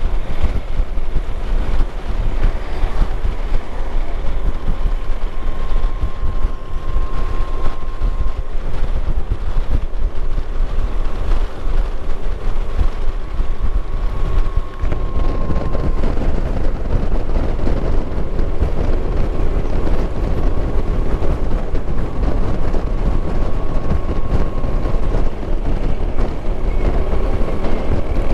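Motorcycle on the move: the engine running under a heavy wind rush buffeting the microphone.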